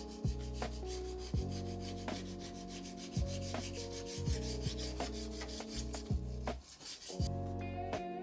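A cooktop scraper's blade scraping across the cooker top in quick repeated strokes, several a second, fading out near the end. Background music with a steady beat plays throughout.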